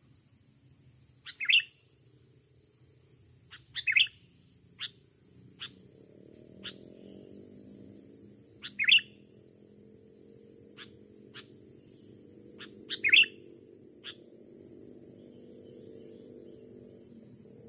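Sooty-headed bulbul (kutilang) calling: short, sharp chirps, in four louder clusters of two or three notes a few seconds apart, with single short notes between them. A faint low hum sets in about six seconds in.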